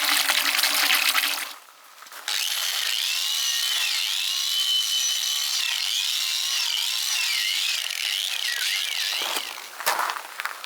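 Water from a garden hose running into an empty cattle trough: a steady rushing noise with wavering higher tones. It drops out briefly about two seconds in and turns uneven near the end.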